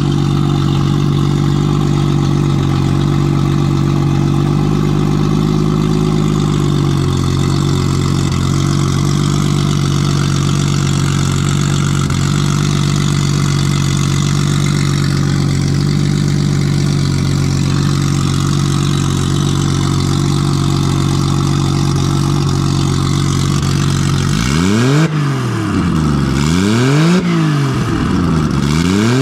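Nissan RB20 inline-six running at a steady idle, then revved up and back down three times near the end. It is running on all six cylinders after a faulty lifter that held a cylinder's intake valve open was replaced.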